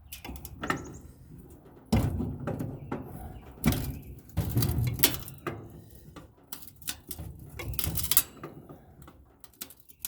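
Furnace sheet metal clanking and banging as it is worked on: a run of irregular metal knocks and rattles, the loudest about two seconds in and again around the middle.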